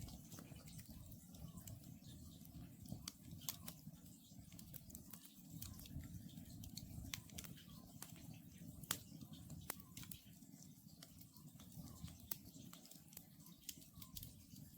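Wood campfire burning, with irregular sharp crackles and pops over a low steady rush of the flames. Faint short hoots of an Oriental scops owl recur every second or two behind the fire.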